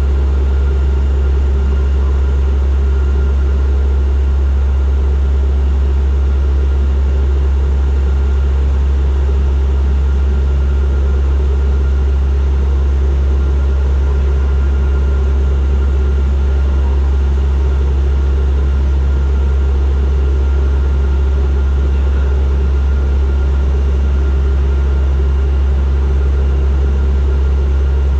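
Turboprop airliner's engines and propellers droning steadily during the approach, heard from inside the cabin: a loud, deep, unchanging hum with fainter steady tones above it.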